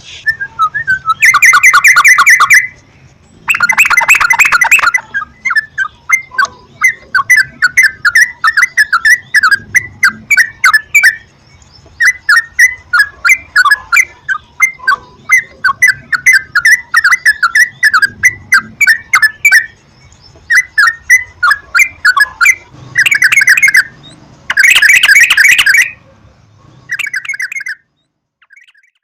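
Yellow-vented bulbuls (trucukan) singing: a long run of quick, bubbly chattering phrases, with loud, dense bursts of rapid notes near the start and again near the end.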